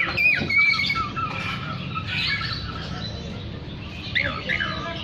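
Oriental magpie-robin (kacer) singing in full voice: a varied run of whistled notes and slurred up-and-down glides with some harsher calls, thinning out past the middle and picking up again near the end, over a steady low hum.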